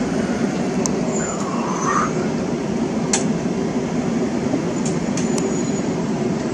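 Regional electric multiple unit running alongside a platform, a steady low rumble with a few sharp clicks and a short whine about a second and a half in. The sound cuts off suddenly at the end.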